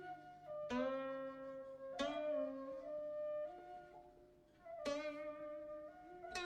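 Slow instrumental background music: a flute-like woodwind melody of held notes over a few plucked string notes.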